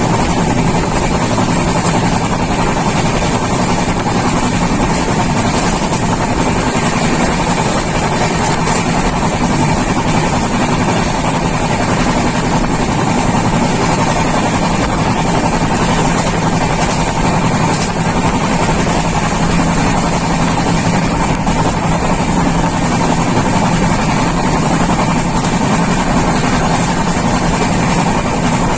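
Passenger train running at speed, heard from on board: a steady, even rumble and rush of noise with a low hum running through it.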